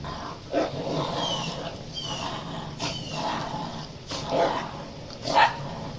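Dogs growling during rough play, in short rough bursts every second or so.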